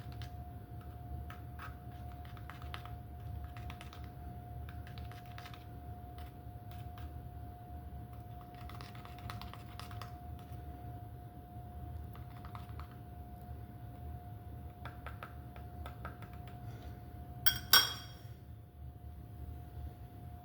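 Scattered light clicks and taps of small hard objects being handled, over a steady hum. About 17.5 seconds in comes a sharp double clink that rings briefly, the loudest sound.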